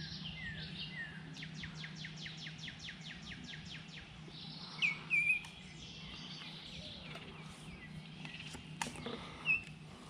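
Songbirds calling: a few short falling chirps, then a fast, even trill for about two seconds, with louder sharp chirps about five seconds in and again near the end. A steady low hum runs underneath.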